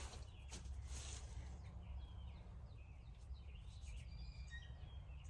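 Birds chirping over a steady low rumble, with a couple of faint clicks in the first second.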